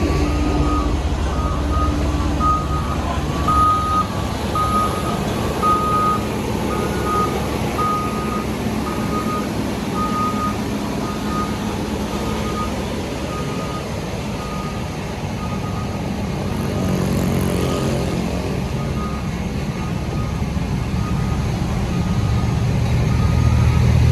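Reversing alarm of a heavy construction machine beeping steadily, about one and a half beeps a second, loud at first and fading away, over the steady running of diesel engines. The engine noise swells briefly about two-thirds of the way in and grows louder near the end.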